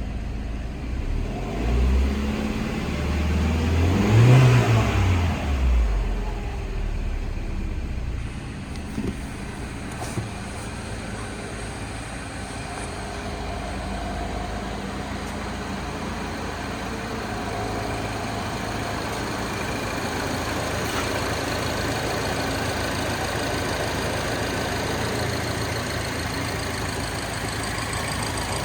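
2012 Mini Cooper's 1.6 L four-cylinder engine revved once, climbing to a peak about four seconds in and dropping back, then idling steadily.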